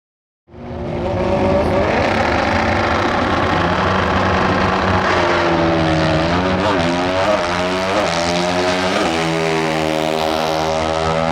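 Drag-racing motorcycle engine running loud, starting about half a second in, with the engine note swinging up and down sharply several times in the middle.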